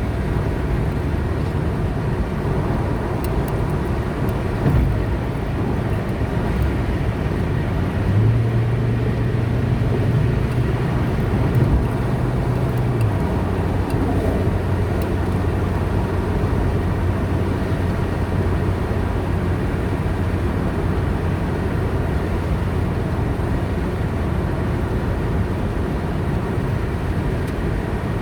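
Car driving on a highway: steady road and tyre noise with a low engine hum that steps up in pitch about eight seconds in and settles lower again about five seconds later.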